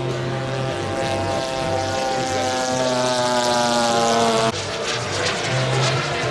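Engine and propeller of a giant-scale radio-control warbird model flying past, its pitch slowly falling as it goes by. It cuts off abruptly about four and a half seconds in.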